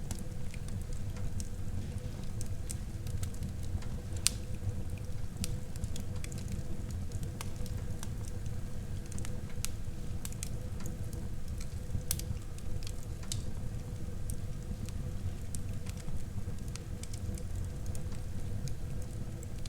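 Wood fire burning in a fireplace: a low steady rumble of flames with scattered sharp crackles and pops, the loudest about four seconds in and again about twelve seconds in.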